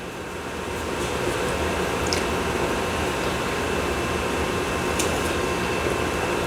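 Steady hum and hiss of a running fan in a small room, with a couple of faint clicks.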